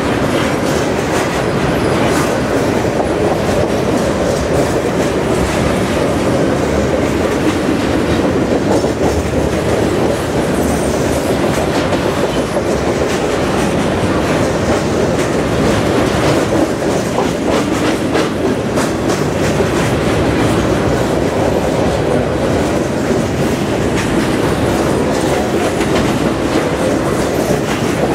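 Covered grain hopper cars of a freight train rolling past close by: a steady, loud rumble with the wheels clickety-clacking over the rail joints.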